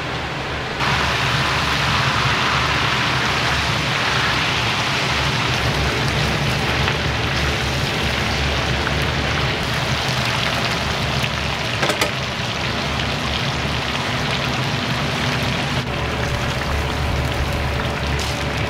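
Food sizzling loudly in hot oil, starting suddenly about a second in and running on as a steady hiss over a low kitchen rumble. One sharp knock comes near the middle.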